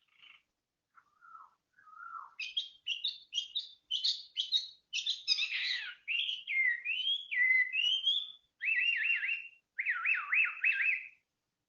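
A songbird singing a varied song: a few soft low notes, then quick high chirps, gliding whistles, and near the end fast repeated up-and-down warbled phrases.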